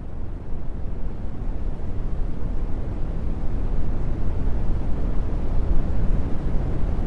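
Brown noise: a steady, deep rushing hiss, strongest in the bass, fading in over the first few seconds.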